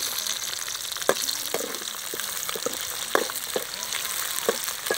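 Small onions, curry leaves and garlic sizzling steadily in an aluminium wok over a wood fire, with a steel ladle knocking and scraping against the pan about seven times as they are stirred.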